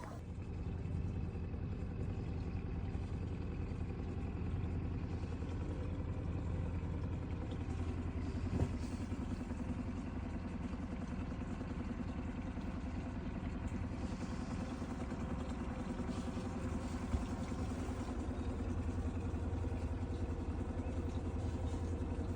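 Boat engine running steadily with a low, even drone. Two brief knocks come through, one about a third of the way in and another later on.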